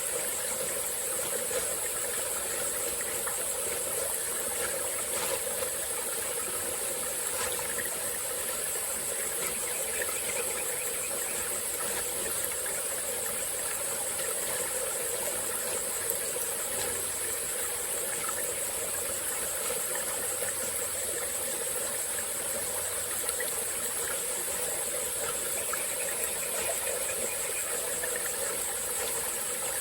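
Small tropical forest stream flowing steadily, with insects trilling continuously at a high pitch over the water.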